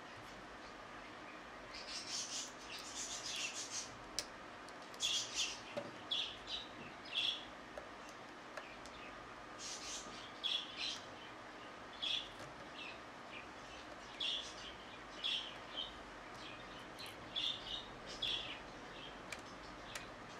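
A small bird chirping repeatedly in short, high-pitched calls, with a few faint clicks.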